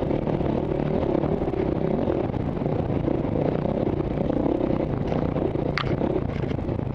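KTM single-cylinder trail bike engine running steadily under load on a sandy track, heard through a helmet camera, with wind buffeting the microphone. There is a single sharp click near the end.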